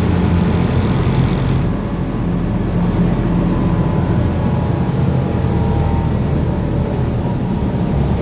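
Inside a BKM-32102 trolleybus under way: a steady low rumble of the road and running gear, with a faint whine in the second half.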